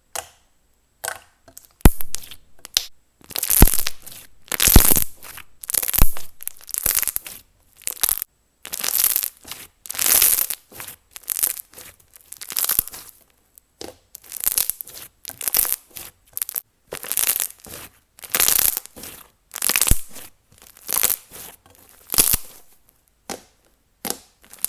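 Thick and glossy slime being mixed and squeezed by hand, giving a wet, noisy squelch about once a second.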